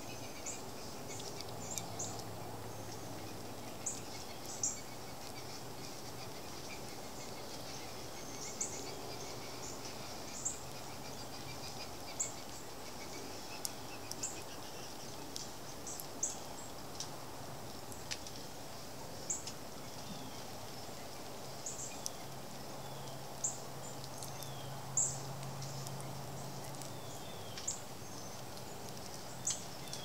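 Short, high-pitched bird chirps repeated irregularly, about one every second or two, over a steady outdoor background hiss.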